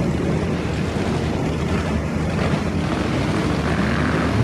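Off-road vehicle engine running in a steady low rumble, with wind noise on the microphone; the engine note starts to rise near the end.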